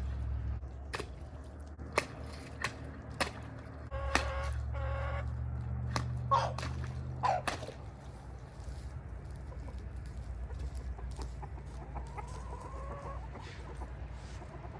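Chickens clucking and calling: a run of hen calls a few seconds in, then two short rising squawks, and a faint call later. A few sharp clicks come before the calls, over a low rumble that fades about halfway through.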